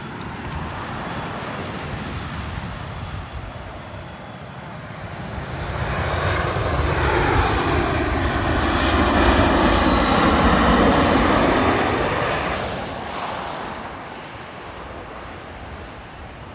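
Jet airliner flying low overhead: its engine noise swells over several seconds to a loud peak about nine to twelve seconds in, the whine falling in pitch as it passes, then fades away.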